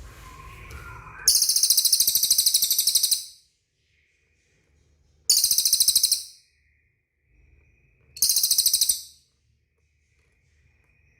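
Cililin bird singing: three loud, high, rapid buzzy trills, the first about two seconds long and the later two about a second each, with short pauses between.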